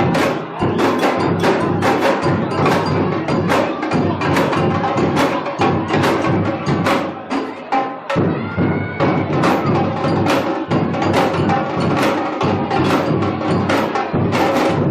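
Samba bateria, a Brazilian drum ensemble, playing a driving samba rhythm: dense, rapid drum and percussion strokes, with a brief let-up a little past the middle.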